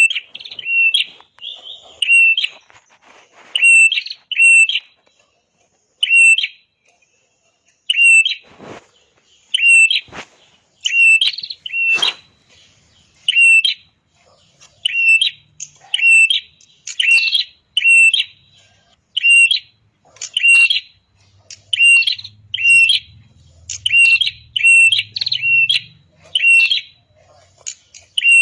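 Red-headed prenjak (a prinia) singing: a long run of short, sharp, high chirps, about one or two a second and often in quick pairs.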